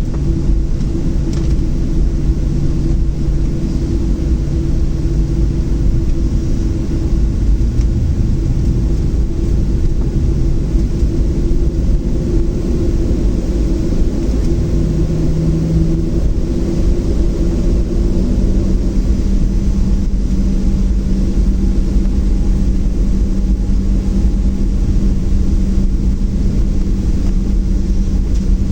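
Boeing 737-700 cabin noise on the ground before takeoff: a steady low rumble of engines and air systems. Several steady hums run through it, and one steps up in pitch about halfway through.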